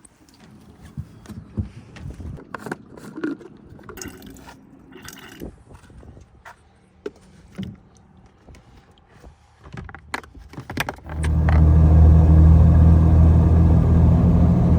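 Scattered knocks, clicks and jangling of gear and keys being handled, then about eleven seconds in a Jeep TJ's engine comes on loudly and runs steadily.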